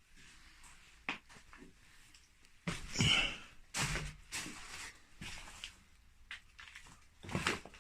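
Footsteps and scattered knocks and scrapes on a debris-strewn floor. The loudest burst comes about three seconds in, with more around four seconds and near the end.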